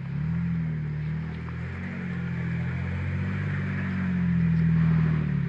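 Engine of an off-road vehicle running and revving lightly, its pitch rising and falling, getting louder about four seconds in.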